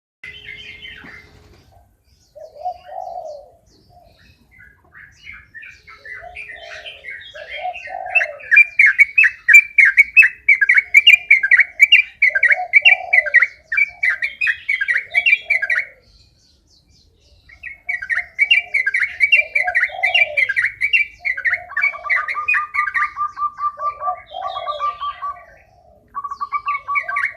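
Sooty-headed bulbul singing in long, fast, unbroken runs of chattering phrases: the 'ropel' style of song that keepers prize. The song stops for a second or two about two-thirds through, then resumes. Lower coo-like notes sound underneath, and a fast, even trill comes in near the end.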